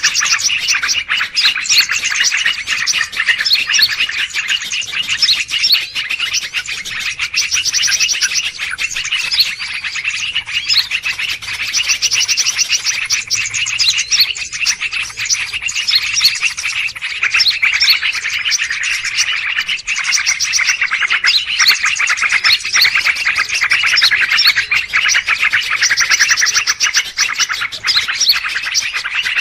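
A dense, continuous chatter of many small birds chirping and trilling over one another, with rapid repeated notes and high trills recurring every few seconds: a noisy mixed-bird lure call (suara pikat) used to draw wild birds in.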